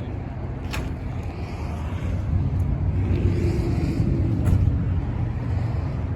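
A car engine running: a low, steady rumble that gets louder about two seconds in, with two sharp clicks.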